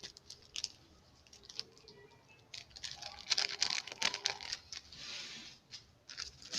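A sheet of paper torn by hand along its edge in short, uneven rips, with crinkling as it is handled; the tearing is busiest from about halfway through.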